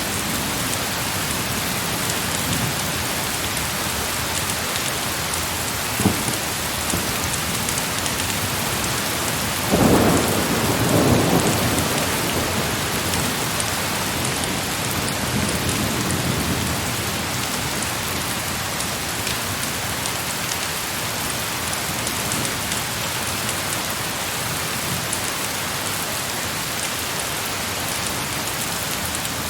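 Heavy rain falling steadily, with a sharp crack about six seconds in and a low rumble of thunder about ten seconds in that dies away over several seconds, followed by a fainter rumble.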